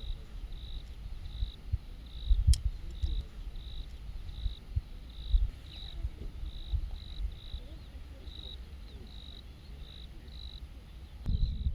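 A cricket chirping steadily, a little under two short high chirps a second, over a low rumble with occasional knocks and one sharp crack about two and a half seconds in.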